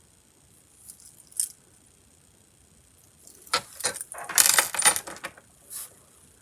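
Small model kit parts clicking and rattling as they are handled: one light click early, then a clattering run of clicks a little past halfway and a last click near the end.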